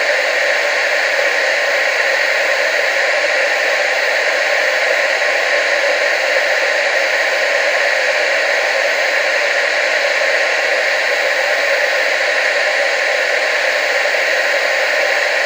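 TV static: a steady, even hiss that does not change, strongest in the upper middle and with no low rumble.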